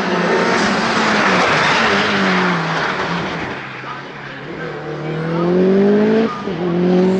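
Mitsubishi Evo 8 hillclimb car with an Eggenberger 2-litre turbocharged four-cylinder, running loud with a rush of noise at first. The engine note then drops and climbs again under acceleration, with a sharp break about six seconds in as it shifts up and the revs start rising again.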